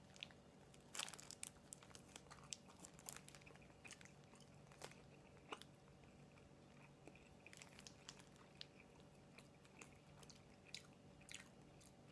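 A person biting into and chewing a soft sausage and cheese English muffin sandwich: faint, irregular small mouth clicks, busiest about a second in.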